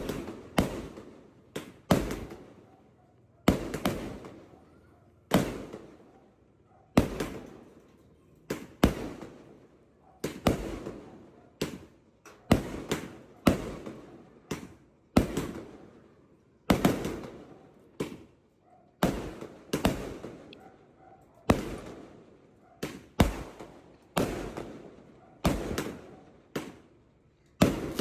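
Multi-shot Roman firework repeater firing shot after shot, about one sharp bang every second. Each bang trails off in a short echoing tail, and now and then two bangs come close together.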